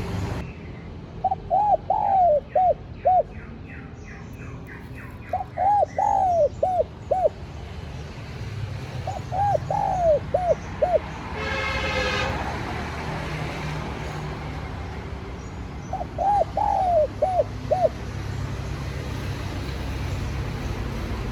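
Spotted dove cooing: four phrases of several coo notes each, spaced a few seconds apart, over a steady low background rumble. A brief buzzy sound comes about halfway through.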